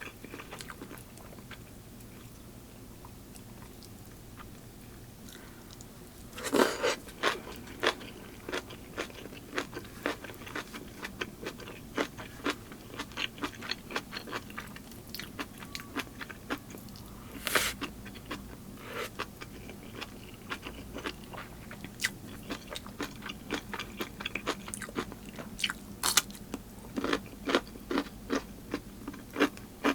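Close-miked eating: a person biting and chewing crunchy food with many crisp, rapid clicks. It is quieter for the first few seconds, then louder bites and chewing start about six seconds in.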